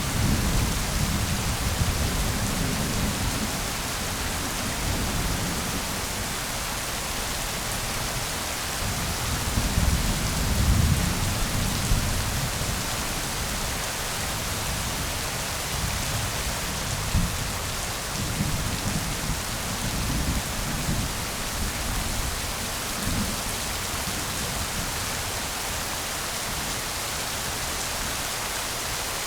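Steady, even rain with low rumbles of thunder rolling underneath, strongest near the start and about ten seconds in, with weaker rumbles later.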